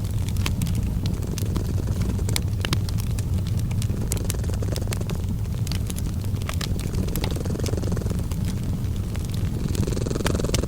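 Domestic cat purring in a steady low rumble, mixed with a wood fire crackling in irregular small pops and snaps.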